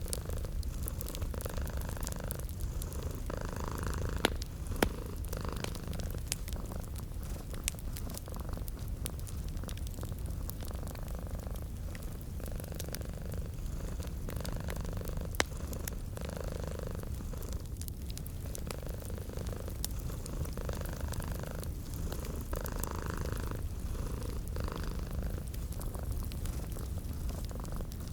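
Domestic cat purring steadily, its rumble swelling and easing with each breath, over a fireplace crackling with scattered sharp pops, two louder pops about 4 and 15 seconds in.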